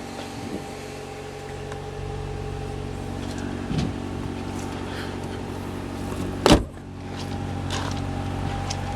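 2011 Chevy Volt's 1.4-litre four-cylinder range-extender petrol engine running steadily at idle. A single loud thump about six and a half seconds in, with a few lighter clicks around it.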